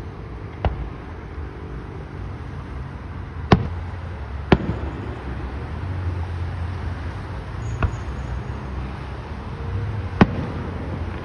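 Fireworks shells bursting: five sharp bangs at uneven gaps, the loudest two a second apart in the middle and one more near the end, over a steady low rumble.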